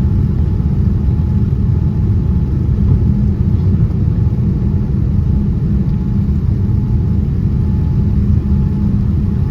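Boeing 787-10 heard from inside the cabin: a steady, loud rumble of its jet engines and the airflow, with a faint steady hum above it.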